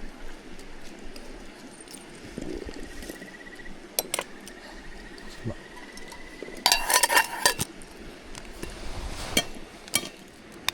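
Camp tableware being handled: scattered taps and clinks of cups, dishes and utensils, with a quick run of ringing clinks about seven seconds in.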